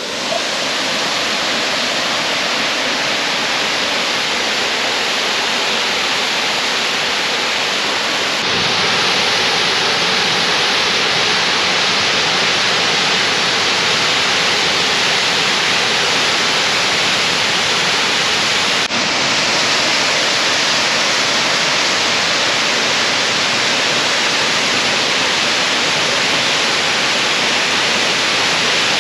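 Millstream Falls pouring in a steady, loud rush of falling water, likely running higher than usual after recent rain. It grows a little louder about eight seconds in.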